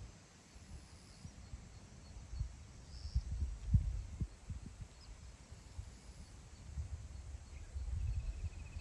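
Wind gusting over open grassland and buffeting the microphone with irregular low rumbles and thumps, strongest about three to four seconds in. A faint high bird call comes about three seconds in, and a short bird trill comes near the end.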